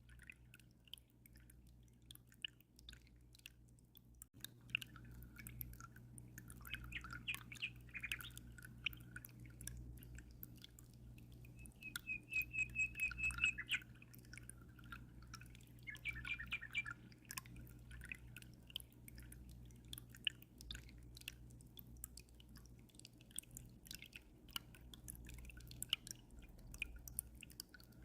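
Small birds chirping and calling, with a fast trill about twelve seconds in. Underneath are the steady low hum and scattered drips of an aquarium's running water.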